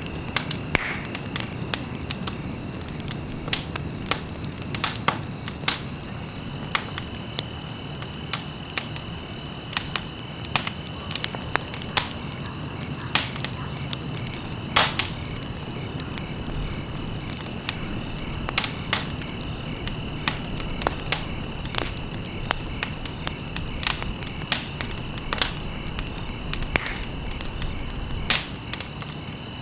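Wood fire crackling, with sharp pops at irregular intervals over a low, steady rumble of burning. A thin, steady high-pitched tone runs underneath.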